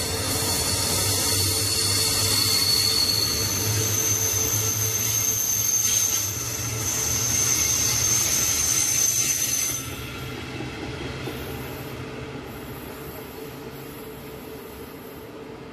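Double-deck regional passenger train rolling past on a curve, its wheels squealing with high steady tones, the pitch shifting higher a few seconds in. The squeal stops about ten seconds in, leaving quieter rolling that fades away.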